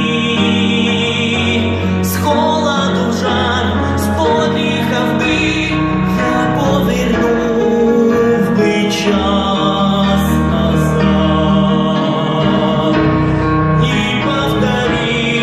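Ukrainian song sung by a man over instrumental accompaniment, with long held notes sung with vibrato.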